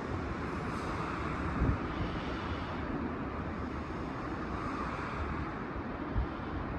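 Steady outdoor rumble with wind noise on the microphone, and two brief low thumps, about one and a half and six seconds in.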